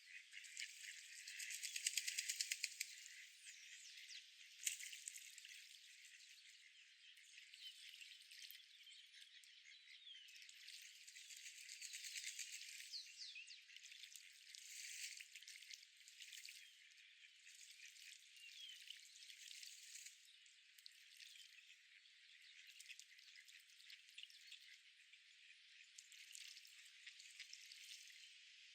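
Faint park ambience of small birds chirping, all high-pitched with no low sound, with a rapid rattling burst about two seconds in and a single sharp click near five seconds.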